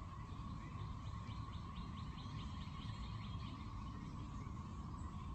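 A bird singing a quick trill of short high notes, about five a second for two to three seconds, over a steady low rumble.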